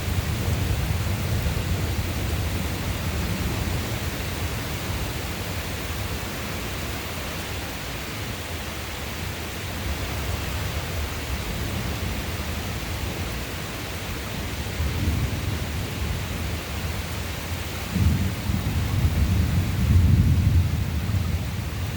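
Thunder rumbling low and continuously over a steady hiss of rain. Louder rolls of thunder come near the end.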